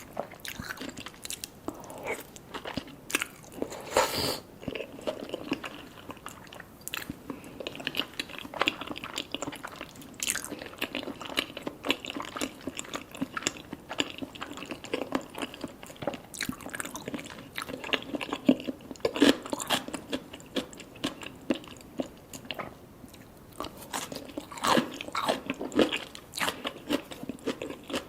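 Close-miked chewing of salmon sashimi with tobiko and sea grapes: wet chewing broken by many sharp crunching clicks, with one louder crunch about four seconds in.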